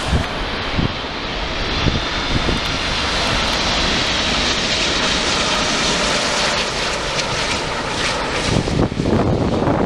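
Wide-body jet airliner's engines running as it passes the runway, a steady jet noise with a faint high whine that builds through the middle, with wind buffeting the microphone.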